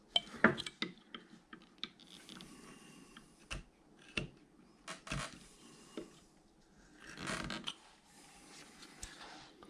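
Carving knife cutting into a wood carving: a string of short cuts and small snaps of wood, with a longer scraping stroke about seven seconds in.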